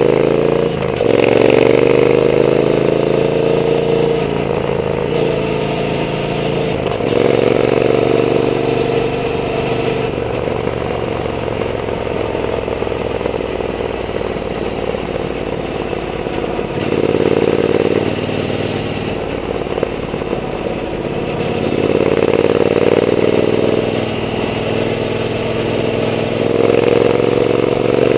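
Triumph Bonneville T120's parallel-twin engine through a Zard aftermarket exhaust while riding: the note rises under acceleration again and again, about five times, with steadier, quieter cruising between the pulls and the longest steady stretch in the middle.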